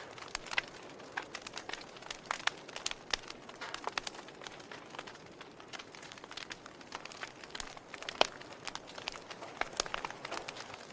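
Fire crackling, with irregular sharp pops and snaps over a soft steady hiss; one louder pop about eight seconds in.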